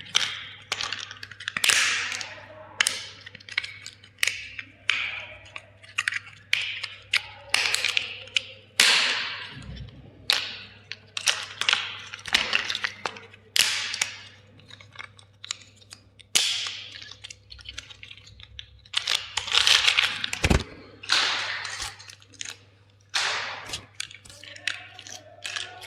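Hard plastic cracking, snapping and crunching in quick, irregular bursts, as toy vehicles or their packaging are crushed. A dull thud comes about ten seconds in and again about twenty seconds in.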